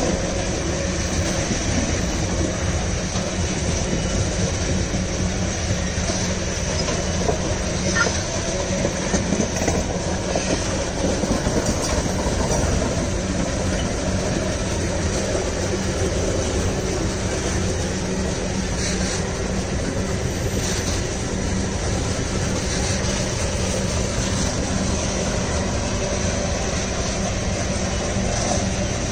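Loaded iron-ore gondola wagons of a long freight train rolling past, with the steady noise of steel wheels running over the rails.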